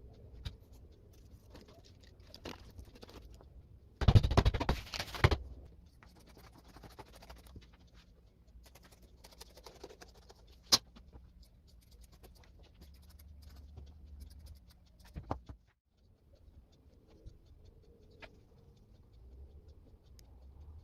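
Handling noises: light scratching and rustling, with a loud rustle lasting about a second, a single sharp click, and a couple of short knocks.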